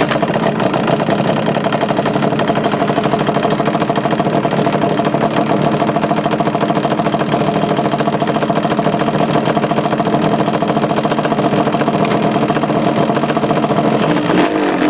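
2002 Yamaha Banshee 350's twin-cylinder two-stroke engine catching and running steadily at idle. It is carrying the noise of a worn kickstart mechanism, which the owner means to cure with a kickstart rebuild kit.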